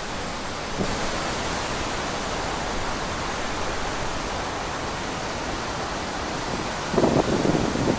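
Steady wind blowing through trees, with a louder gust near the end.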